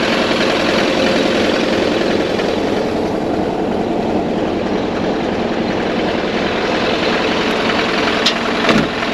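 A large truck's engine running steadily, a continuous low drone with a steady hum. Two short clicks come near the end.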